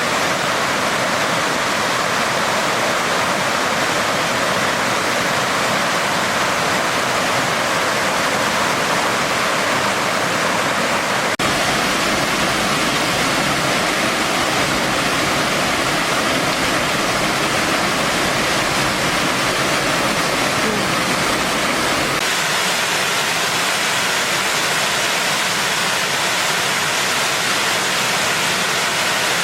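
Mountain valley stream rushing, a loud steady wash of water noise with a brief break about eleven seconds in.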